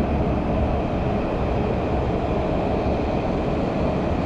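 Metro train running between stations, heard from inside the carriage: a steady low rumble with rolling wheel and air noise.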